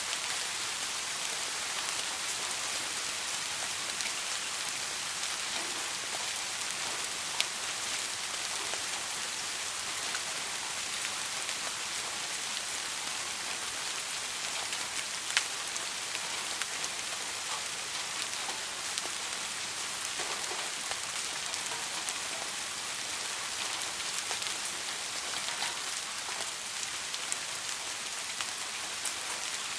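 Soft rain falling steadily: an even hiss dotted with fine drop ticks, with two sharper drop hits about 7 and 15 seconds in. No thunder is heard.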